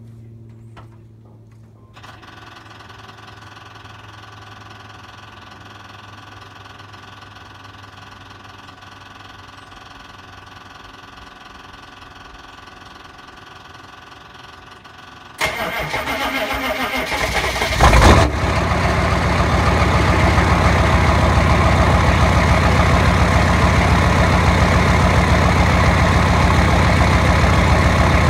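6.5-litre V8 diesel engine cold-started: a faint steady hum runs for several seconds, then the engine cranks, catches with a loud flare about 18 seconds in, and settles into a loud, even idle.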